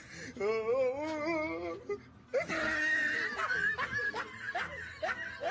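People laughing: a wavering, pulsing laugh at first, then louder, breathier laughter for the last few seconds.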